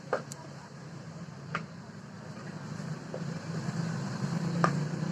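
A steady low engine hum that grows louder toward the end, with a few sharp clicks over it.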